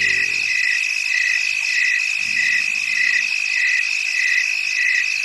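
Chorus of frogs and insects: a steady high trill with a regular chirping call repeating about twice a second.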